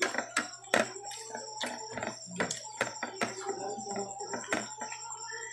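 Close-up eating sounds: chewing barbecued meat, with irregular wet clicks and smacks of the mouth several times a second.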